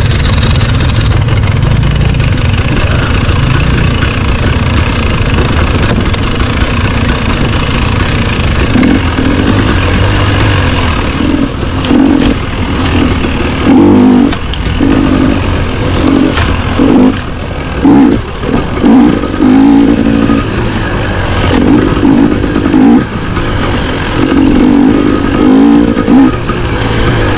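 Dirt bike engine running on a trail ride, with repeated bursts of revving, each a second or so long, through the second half.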